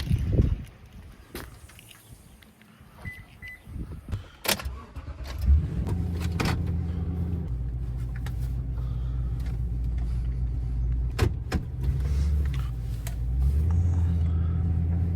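Clicks and knocks, then a short double beep about three seconds in. About five seconds in, the pickup truck's engine starts and runs steadily, its pitch changing a couple of times.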